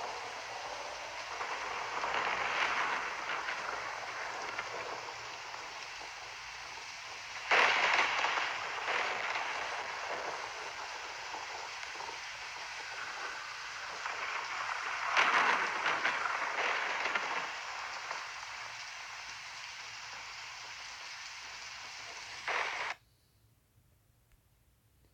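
Steady hiss of rain during a storm, with two sudden louder swells about a third and two thirds of the way through, stopping abruptly near the end.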